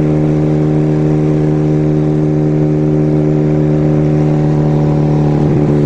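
Kawasaki 440 parallel-twin motorcycle engine running at a steady cruising speed, its pitch holding even throughout.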